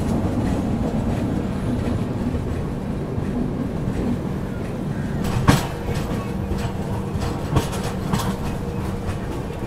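Konark Express train running along the track: a steady rumble with a few sharp clicks from the wheels over the rails, the loudest about five and a half seconds in.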